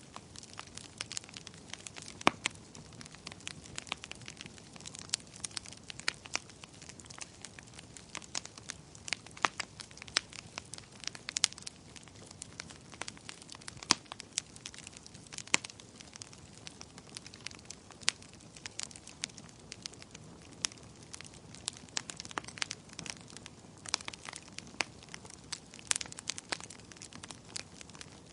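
Wood fire crackling: irregular sharp pops and snaps, several a second, over a soft low hiss of burning.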